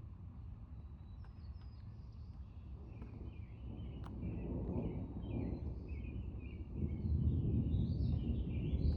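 Rolling thunder: a low rumble that builds from a few seconds in and swells louder near the end, with birds chirping repeatedly over it.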